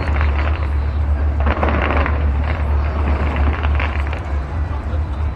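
Fireworks display going off at a distance: a continuous low rumble with crackling, loudest about a second and a half to two seconds in.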